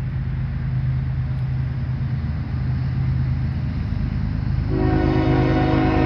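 Diesel locomotives running with a steady low drone as the train approaches. Near the end, the lead unit's Nathan K5HL five-chime air horn starts a long blast for the grade crossing.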